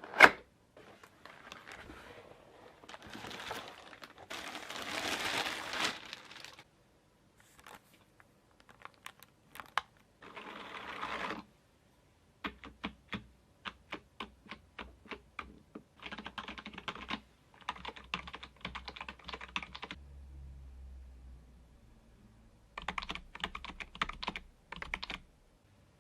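Keys of a computer keyboard being pressed in short runs of quick clicks, with a sharp click at the start and stretches of rustling and scraping from hands handling things between the runs.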